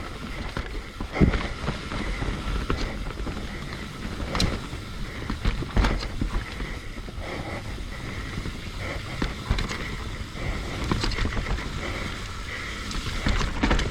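Mountain bike descending a wet dirt trail: tyres rolling over the ground with the bike clattering and knocking over bumps, several sharp knocks along the way, and wind rumbling on the microphone.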